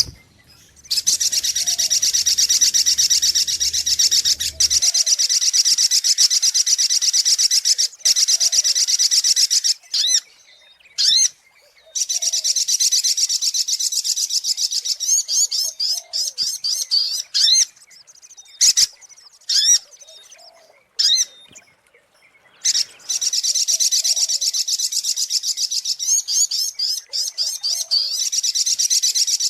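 Spiderhunter (sogok ontong) song as used for a bird-lure recording: long, rapid, high-pitched chattering trills. There are three main runs, from about a second in to about ten seconds, again around twelve to seventeen seconds, and from about twenty-three seconds to the end, with short separate calls in the gaps.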